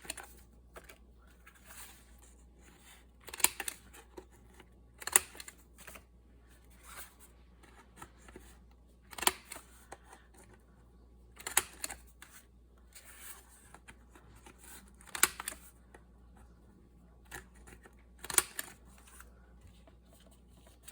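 Handheld We R Memory Keepers corner rounder punch snapping through the corners of paper folders: about seven sharp clicks a few seconds apart, with quieter paper handling between them.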